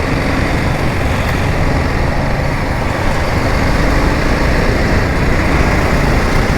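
Steady rush of wind and road noise on the camera microphone of a moving motorcycle, with the bike's engine buried beneath it.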